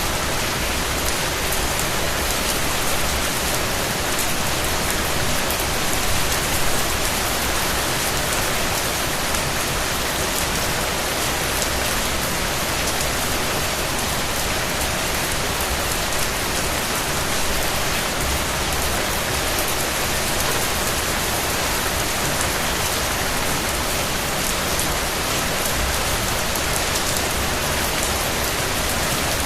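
Steady rain falling and pattering on surfaces, a dense, even hiss of many drops with no let-up.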